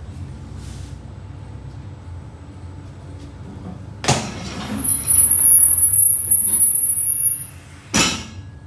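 Hydraulic motorcycle lift being lowered: a sharp clack about four seconds in, then a loud, high, steady hiss for about two and a half seconds as it comes down, and another sharp clack near the end. A low steady hum runs underneath.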